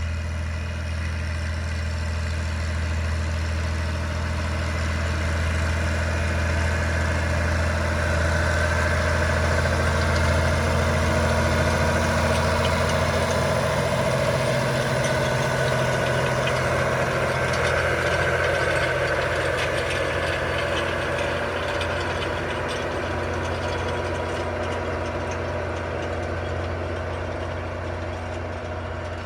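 Ford 8210 tractor's six-cylinder diesel engine running steadily while pulling wide grass harrows, a continuous low drone that grows louder toward the middle and eases off near the end.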